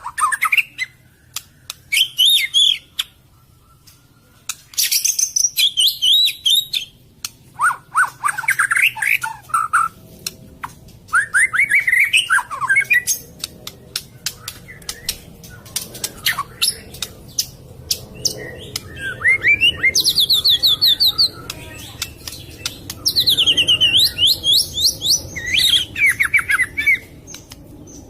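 White-rumped shama (murai batu) singing: a run of varied phrases of quick whistled notes, fast trills and sharp clicks, separated by short pauses.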